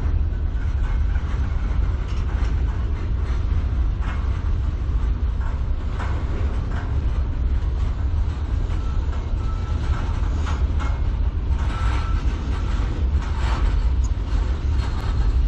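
Freight cars of a CN manifest train rolling past at low speed: a steady low rumble of wheels on rail, with scattered wheel clicks, knocks and clanks.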